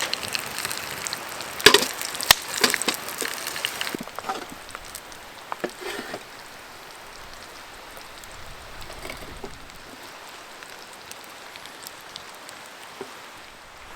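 Crackling and sizzling of a campfire cook-up, dense with sharp pops for about four seconds, then dropping to a faint hiss with occasional ticks.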